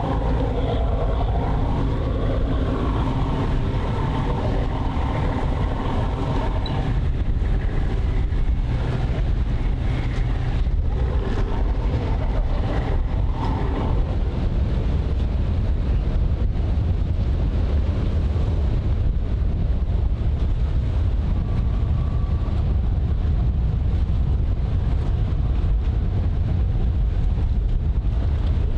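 Steady low rumble of vessel engines with wind buffeting the microphone. A humming engine tone sits on top for the first seven seconds or so, then fades.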